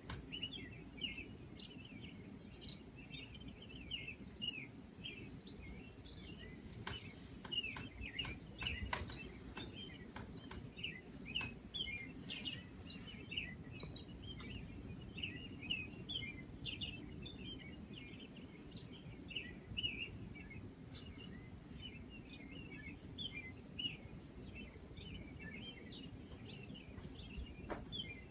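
Small birds chirping continuously, many quick high chirps a second, over a low steady background hum. A few short clicks stand out about a third of the way in.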